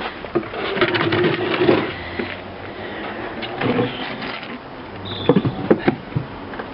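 Puppies scrabbling and knocking about on a wooden climbing obstacle: a run of paw and claw clicks and knocks, with the sharpest knocks near the end.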